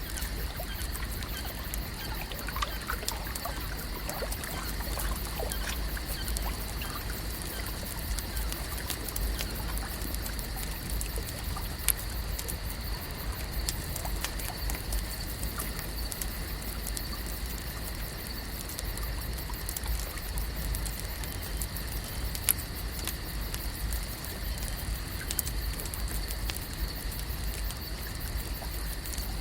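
Lake shore ambience: water lapping and trickling with scattered small clicks and drips, over a steady low rumble and a steady high-pitched drone.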